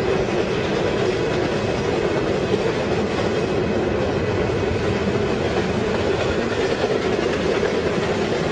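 Freight train passing, the steady rumble of its cars running over the rails.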